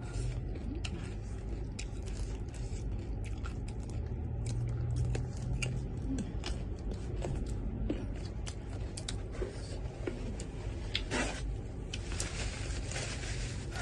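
Eating sounds close to the microphone: chewing with many small scattered mouth and utensil clicks. There is a brief airy hiss about eleven seconds in and a longer one near the end.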